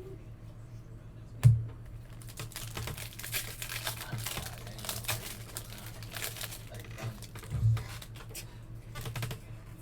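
Baseball card pack wrappers crinkling and tearing as packs are opened, a dense crackle through the middle. A loud sharp thump comes about a second and a half in, and a softer one comes later.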